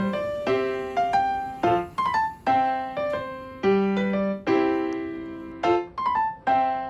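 Background piano music: a gentle melody of struck notes, a few each second, each ringing and fading.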